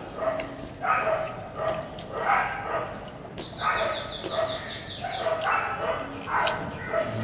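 Close-miked wet chewing and lip-smacking of a mouthful of rice and fish, in a regular run of smacks about one to two a second.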